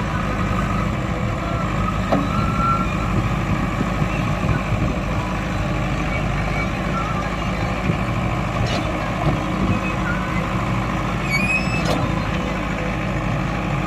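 Heavy diesel machinery, a backhoe loader and tractor, running steadily under load while working in mud, with a brief high chirp a little before the end.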